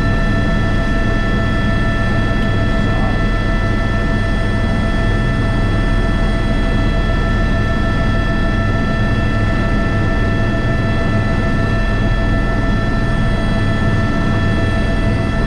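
Airbus H125 (AS350 B3) helicopter running steadily in flight: a constant turbine whine of several high, steady tones over the deep, even noise of the rotor and engine.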